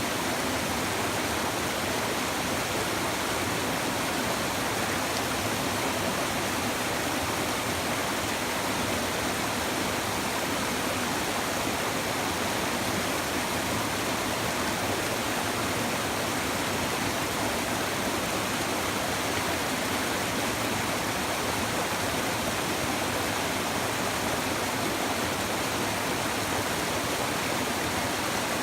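A river's shallow stream babbling over stones, a steady, even rush of flowing water.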